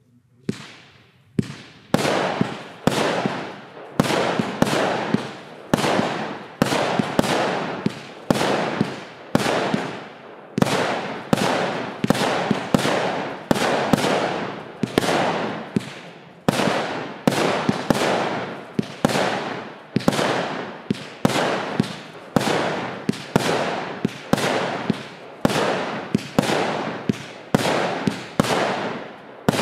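Pyrotrade Exorzist 3 firework firing shot after shot, about one and a half to two a second for nearly half a minute. Each sharp bang trails off in a fading rush of noise.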